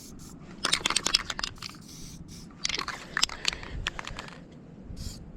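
180-grit sandpaper rubbed by hand over a motorcycle exhaust in two scratchy bursts of strokes, about a second each, with shorter scrapes near the end.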